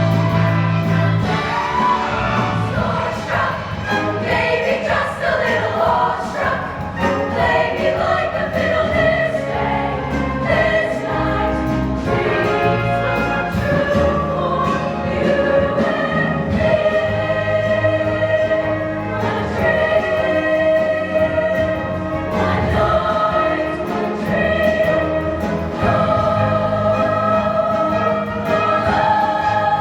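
High school show choir singing, with instrumental accompaniment.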